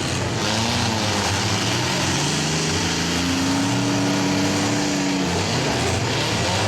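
Engines of several demolition-derby minivans and small pickups running and revving together. One engine climbs to a higher pitch about three seconds in, holds it for about two seconds, and then drops back.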